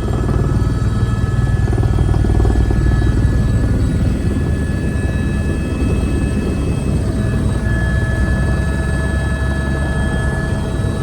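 Helicopter running steadily: a strong low rotor and engine rumble with steady high whining tones over it.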